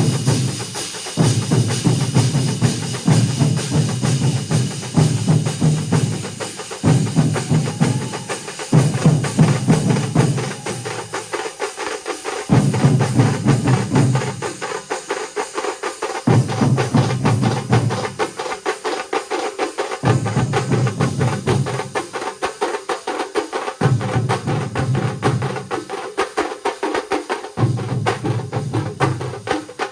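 A large drum ensemble playing together: a dense, fast, unbroken rhythm, with heavy low beats swelling in and dropping out every second or two.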